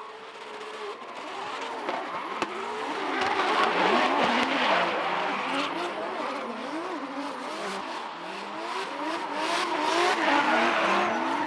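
Car engines revving up and down over and over in quick rising and falling swings, over a steady rushing noise; it builds louder over the first four seconds or so.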